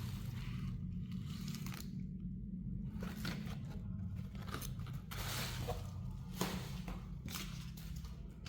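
Scattered small clicks and short rustling or crinkling noises of hands handling parts and packaging, over a steady low hum.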